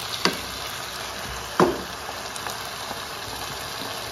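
Food sizzling steadily in a wok as boiled potatoes, peas and carrots are tipped in from a glass bowl with a wooden spatula. Two sharp knocks cut through the sizzle, a lighter one just after the start and a louder one about a second and a half in.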